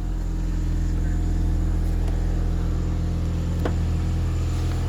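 Toyota Sera's engine idling steadily with a low, even hum. There is a single light click about three and a half seconds in.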